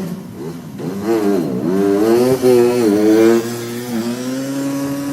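Small engine of a loader rickshaw revving up and down several times, then settling into a steady run about four seconds in.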